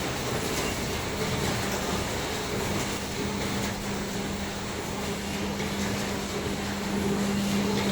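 Non-woven bag cutting and L-sewing machine running steadily, a continuous mechanical noise with a constant low hum.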